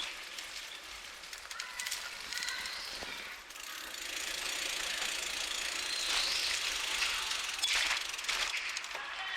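Bicycle riding along a road: steady hiss of tyres rolling on pavement, with light rattles and clicks from the bike.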